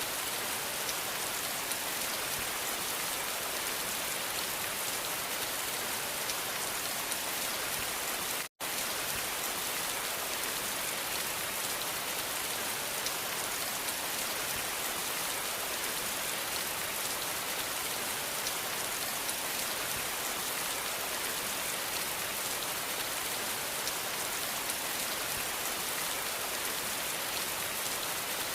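Steady rain falling, an even hiss of drops with no let-up. About eight and a half seconds in, the sound drops out to silence for a split second.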